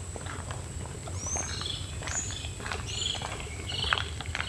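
Several tropical forest birds calling: short high chirps and whistles, some sliding down in pitch, one every half second or so from about a second in, over a steady low rumble.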